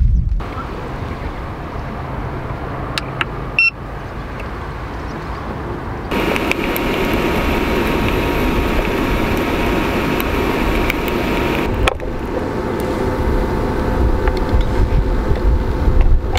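Frozen gyoza sizzling and steaming between the hot plates of a closed electric récolte hot sandwich maker, a steady frying hiss. Low wind rumble on the microphone comes in at the start and again near the end.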